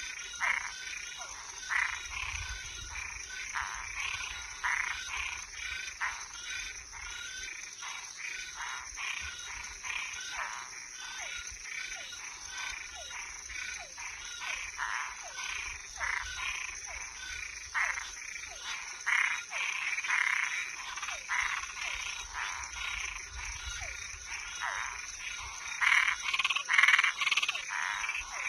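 A night chorus of frogs and tree frogs: many short calls overlap and repeat irregularly, with thin falling notes among them. A steady high insect trill runs underneath. The calling grows denser and louder near the end.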